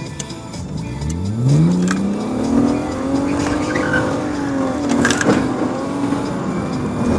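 Car engine heard from inside the cabin, revving up as the car pulls away: its pitch rises steeply about a second in, then levels off and wavers as the car drives on. There are a couple of brief knocks, the stronger one about five seconds in.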